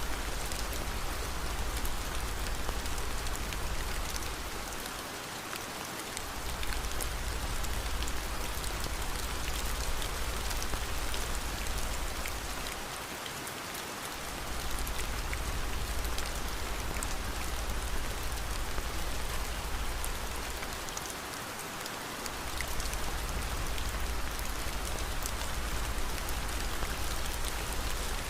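Steady rain: a dense hiss with scattered fine drop ticks, over a deep low rumble that drops away briefly about every eight seconds.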